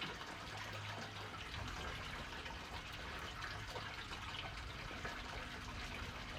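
Water lapping and sloshing against a boat's hull, a steady, moderately quiet wash.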